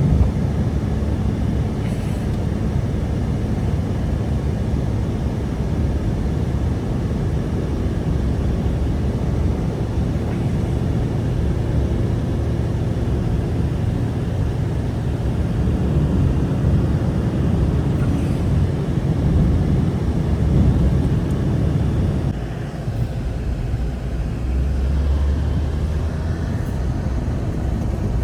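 Strong blizzard wind rumbling steadily. It eases slightly and changes character about 22 seconds in.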